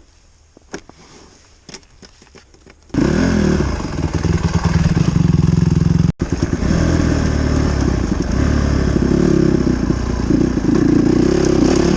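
Dirt bike engine running loud and close, coming in suddenly about three seconds in and carrying on steadily, with a brief cut-out around the middle. Before it, only faint clicks.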